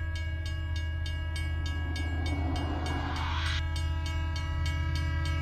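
Moving train: a low rumble with an even clatter of wheels over rail joints, about four a second, under a steady pitched tone. About two seconds in, a hiss swells up and then stops abruptly a second and a half later.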